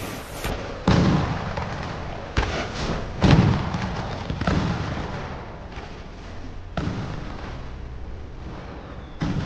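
Fireworks bursting overhead: a series of about six booms, one every second or two, each fading out after the bang, the loudest a little over three seconds in.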